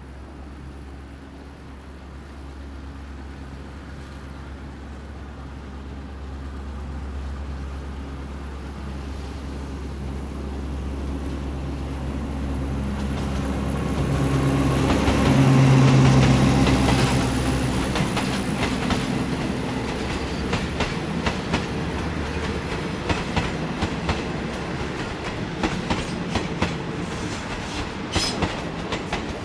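Alsthom AD24C diesel-electric locomotive approaching with its engine running, growing louder until it passes about halfway through. The wheels of the passenger carriages behind it then clatter over the rail joints in a steady clickety-clack.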